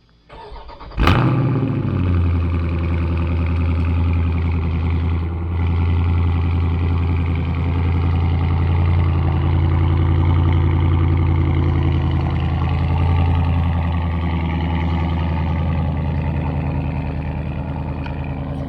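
Cold start of a 2021 Dodge Charger Scat Pack's 6.4-litre Hemi V8 through a mid-muffler delete with the stock resonators. Brief cranking, then a loud flare as the engine catches about a second in, settling into a steady idle.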